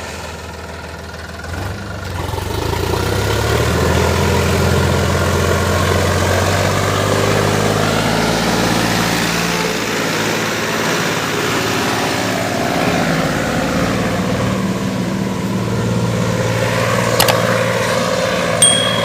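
Sonalika DI 50 RX Sikander tractor's diesel engine running under load, rising in pitch about two seconds in and then pulling steadily. A sharp click near the end.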